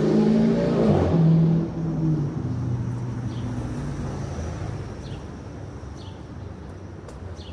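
A car engine accelerating loudly, its pitch climbing and stepping, then fading away after about two seconds into quieter street background with a few faint short chirps.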